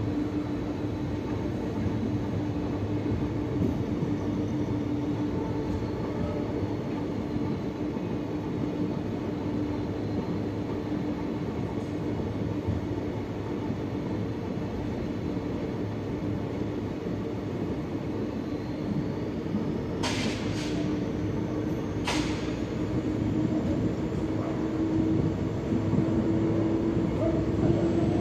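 Passenger train coach rolling slowly along the track, heard from an open window of the coach: a steady rumble with a low hum. About two-thirds of the way in come two sharp clacks about two seconds apart, and near the end a faint rising whine comes in as the running grows louder.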